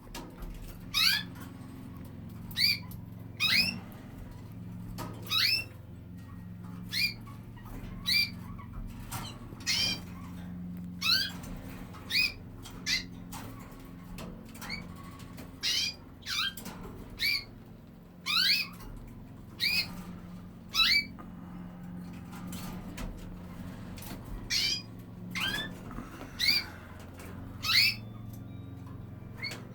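Canaries calling: short, sharp rising chirps repeated about once a second, over a steady low hum.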